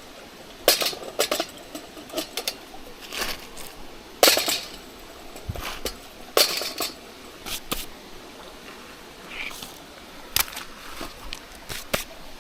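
Irregular clinks and scrapes of an eating utensil against metal cookware, a dozen or so sharp knocks spaced unevenly, as food is dished up or eaten.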